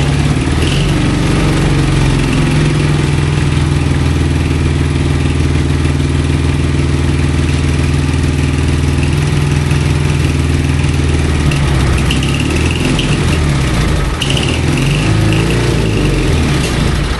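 CJ750 sidecar motorcycle's 750 cc side-valve flat-twin engine running at idle on its first startup, held on choke because it dies when the choke comes off, a fault the owner wonders is a lean carburetor setting. The idle is steady at first, and its speed wavers and hunts in the second half.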